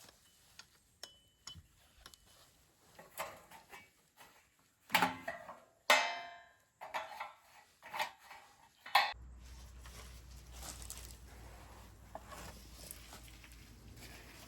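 Metal cookware and utensils clinking and knocking, a dozen or so separate strokes, one clank about six seconds in ringing briefly. From about nine seconds in a steady low rumble runs under a few faint knocks.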